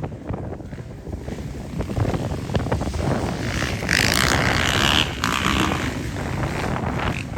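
Motocross dirt bikes running on the track, engines rising and falling, with wind buffeting the microphone; the sound gets brighter and louder about four seconds in.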